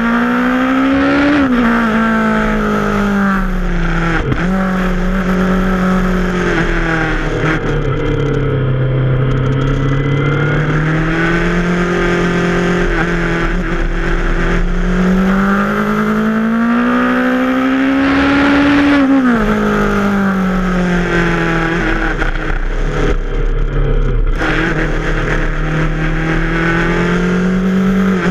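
Yamaha FZ6R's inline-four engine under way on a twisty road. Its pitch climbs and falls with the throttle and drops sharply three times as the throttle is rolled off or a gear is shifted.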